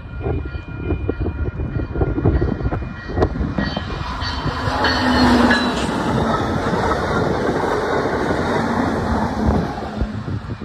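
Amtrak Hiawatha passenger train passing, its wheels clicking over rail joints. The train sound builds to its loudest about halfway through, with faint steady tones in the first few seconds.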